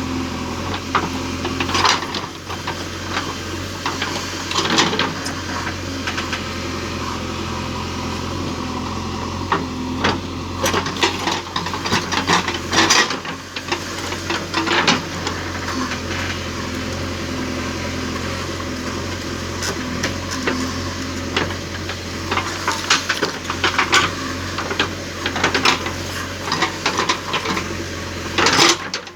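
Digging a planting pit for a coconut sapling: irregular scraping and knocking strikes into soil, in clusters, over a steady low machine hum.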